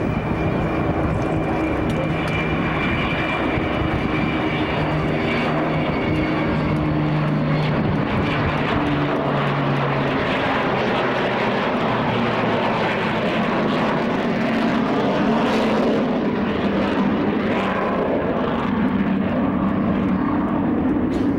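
Fixed-wing aircraft flying past in a display. Its engine tones drop in pitch over the first ten seconds or so, then settle into a steady, noisier drone.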